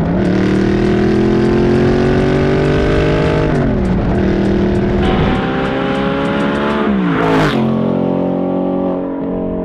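Audi R8 engine through a titanium Quicksilver exhaust, accelerating hard. The pitch climbs through a gear, drops at an upshift about three and a half seconds in, climbs again, and drops at another upshift with a short crackle about seven and a half seconds in. It then runs at a steady note to the end.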